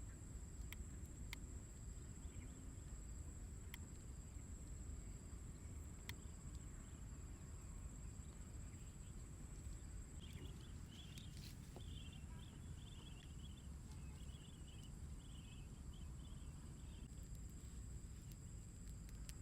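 Faint outdoor ambience with an insect, such as a cricket, giving a steady high-pitched drone over a low rumble. From about halfway, a run of short chirps comes in for several seconds, and there are a few light ticks.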